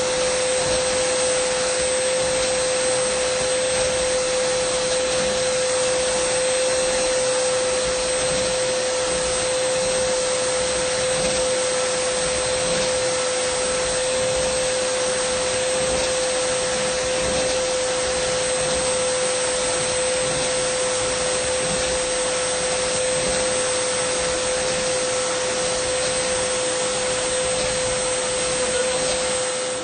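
Dyson vacuum cleaner running steadily: a constant rushing of air with a steady mid-pitched whine from the motor.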